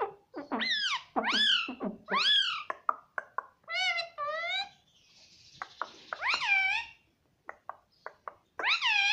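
Ringneck parrot calling repeatedly: a run of short, high calls, each rising then falling in pitch. Four come in quick succession, then a pair, then two more spaced a couple of seconds apart. Between the later calls there is a brief hiss and a few light clicks.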